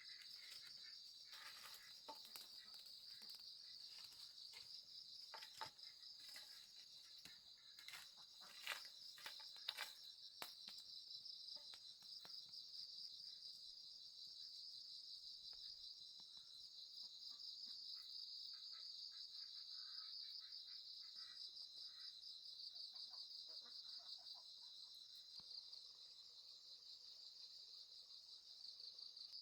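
Faint, steady high-pitched chirring of an insect chorus, with scattered sharp clicks and knocks during the first ten seconds or so.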